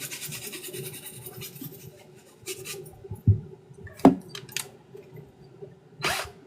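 Rapid back-and-forth scrubbing, a brush worked over a sneaker, for about the first two seconds, then it stops. A few separate knocks and clicks follow, with a steady low hum underneath.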